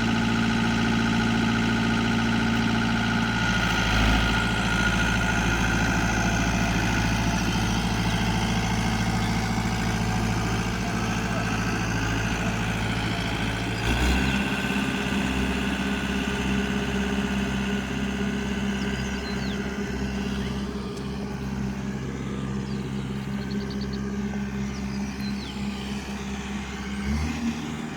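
Engine running steadily; about halfway through it drops to a lower speed, and it changes again near the end.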